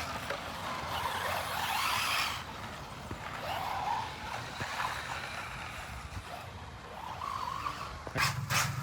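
Radio-controlled cars running on the track, tyres skidding on the surface and motors whining up and down in pitch. A low steady hum with a few sharp clicks starts near the end.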